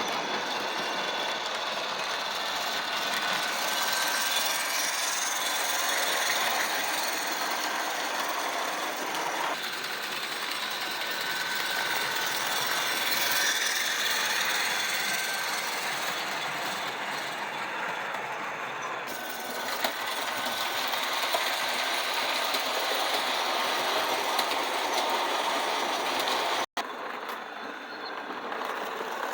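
Vintage O scale model steam locomotive with a universal motor running along its track pulling passenger cars: a steady mechanical whir with a faint whine. The sound cuts out briefly near the end.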